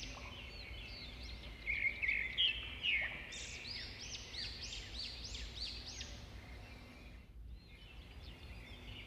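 Birds chirping in the background, with a run of quick repeated sweeping notes, about two or three a second, in the middle.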